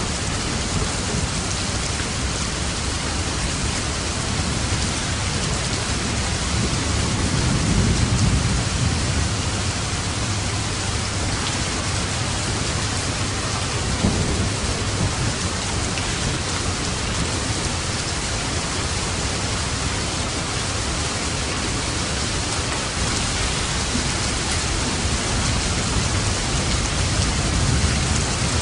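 Steady heavy rain falling, with low rolling thunder that swells about eight seconds in and rumbles again more faintly a little later.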